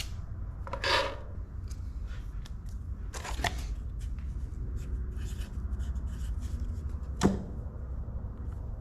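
Tools and a compression-tester hose being handled: scattered clicks and rustles, with sharp knocks about a second in, around three seconds in and near the end, over a steady low hum.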